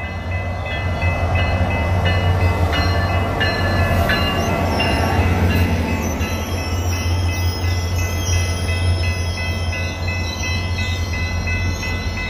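SunRail commuter train passing close by: the diesel locomotive's engine hums steadily under the rush of the bi-level coaches rolling past. The locomotive bell rings over it at about three strokes a second.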